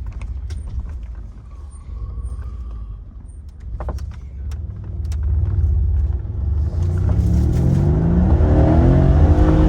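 Mercedes-AMG C63's twin-turbo V8 running at low revs with a steady rumble and a few sharp clicks. About halfway through the car accelerates: the engine note rises and dips through gear changes as road noise builds.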